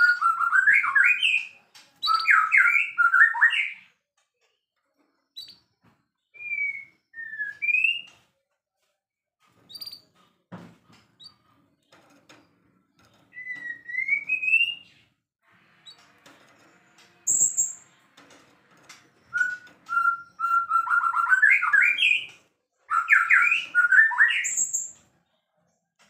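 White-rumped shama singing: fast, dense phrases of rich whistled notes at the start and again in the last few seconds, with single clear whistles and rising slurred notes in between. Two sharp clicks, about ten and seventeen seconds in.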